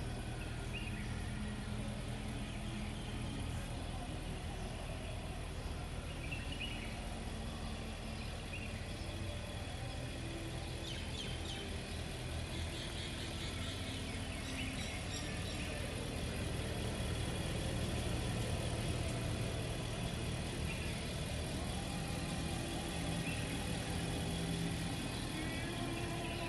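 2017 Nissan Armada's 5.6-litre V8 engine running at a steady low hum, with no revving.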